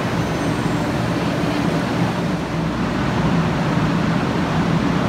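500 series Shinkansen train arriving at the platform: a steady low hum under an even rushing noise.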